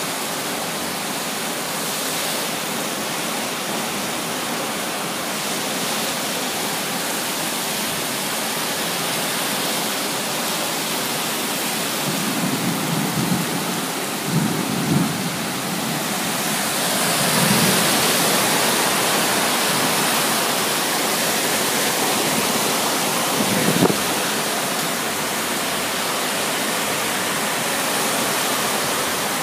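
Heavy tropical downpour falling steadily on a swimming pool and its paving, swelling louder a little past halfway, with a few brief low rumbles in the middle.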